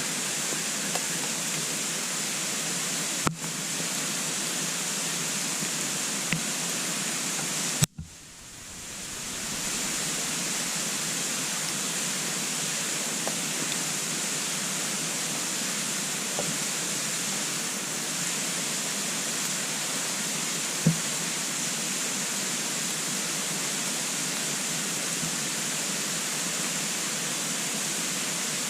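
Wood burning in a compact wood-burning stove: a steady hiss with a few sharp crackling pops, about four in all, spread out. After the pop about eight seconds in, the hiss briefly drops away and then swells back.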